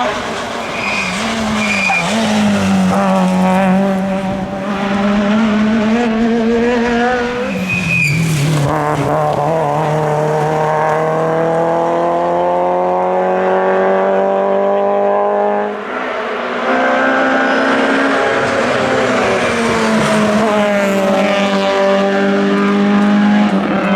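Group F2000 rally car's naturally aspirated engine at full throttle, revs climbing steadily and falling sharply twice as the driver lifts or shifts. Brief tyre squeals near the start and about eight seconds in.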